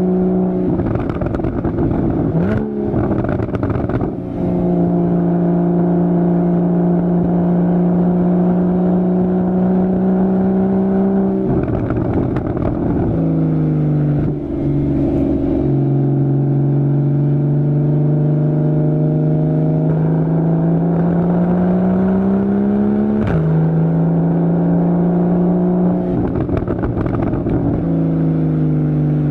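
2015 Porsche Boxster's 2.7-litre flat-six with a Fabspeed Maxflo aftermarket exhaust under spirited driving. The exhaust note climbs slowly in pitch under throttle and drops sharply at several gear changes of the PDK gearbox.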